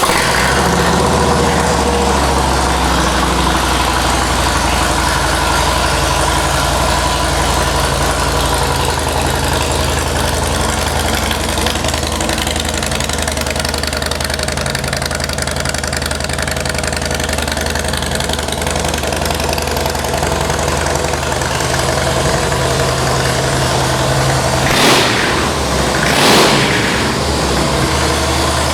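2014 Harley-Davidson Softail Deluxe's 103-cubic-inch V-twin idling through Vance & Hines aftermarket exhausts, freshly started. Near the end the throttle is blipped twice, the engine revving up and dropping back to idle each time.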